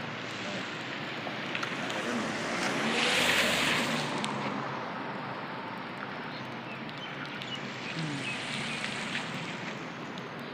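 Steady hiss of rain and wet street, with a vehicle passing on the wet road about three seconds in and a softer swell of traffic near the end.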